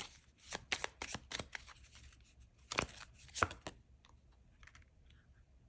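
Tarot cards being shuffled and handled: a quick run of crisp card flicks and slaps over the first two seconds, a few sharper snaps about three seconds in, then only faint light ticks.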